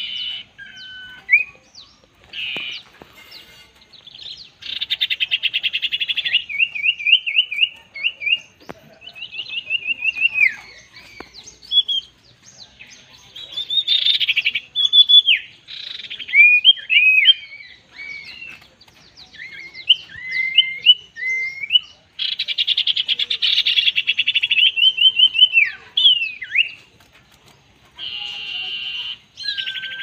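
Common ioras calling: harsh, buzzy chattering bursts alternate with fast whistled trills and short slurred notes, again and again.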